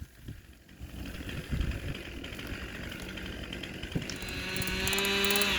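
A small engine running, its note coming in about four seconds in and growing louder, with the pitch wavering.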